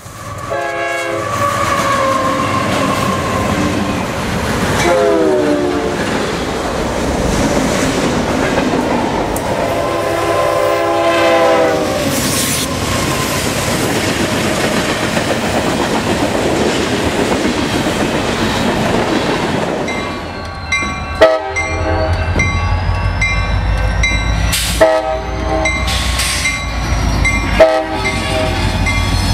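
CSX diesel freight locomotives passing with their cars rolling over the rails, the air horn sounding in several blasts during the first half. In the last third a deep, close diesel rumble takes over, broken by three sharp, loud knocks.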